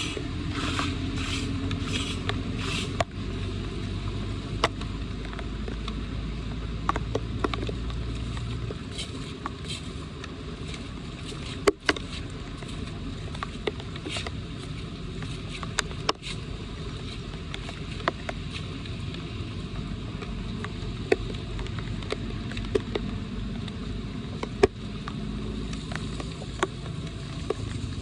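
Floodwater running into a street storm drain, a steady rushing with a low rumble. Four quick rasping strokes come in the first three seconds, and sharp knocks and clicks of debris being cleared follow throughout.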